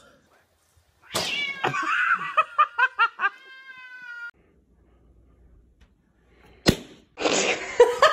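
A cat yowling and meowing: a string of short, quick calls, then one long drawn-out meow that stops about four seconds in.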